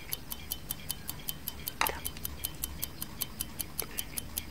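Clock ticking sound effect, a fast even tick about five times a second. A louder, deeper knock breaks in about two seconds in and a fainter one near the end.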